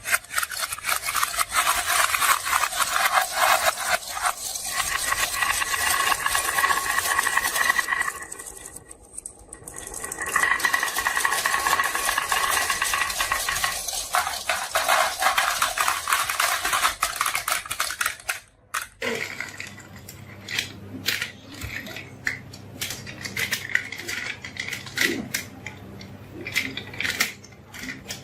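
Many marbles rolling and clattering down a marble run track: a dense rattle of clicks that drops briefly about eight seconds in, then thins to scattered clicks and taps after about nineteen seconds.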